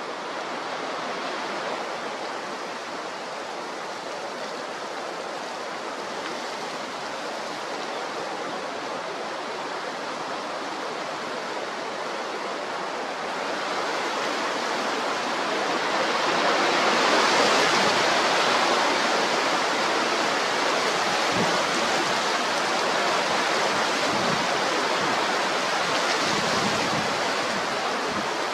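Steady rushing noise of a strong gale blowing at the coast, swelling louder about halfway through.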